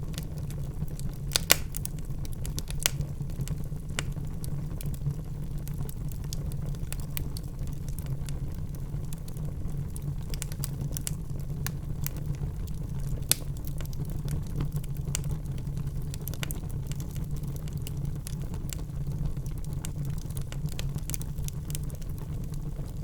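Wood fire burning in a fireplace: a steady low rumble of flames with frequent sharp crackles and pops from the logs, a couple of louder pops about a second and a half in and near the middle.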